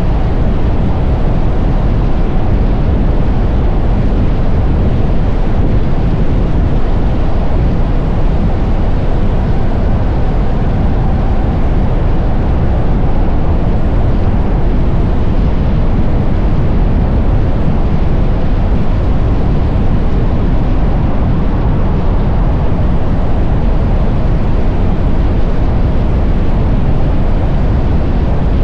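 Steady wind rush and road noise on the microphone of a moving electric motorcycle, with no engine note.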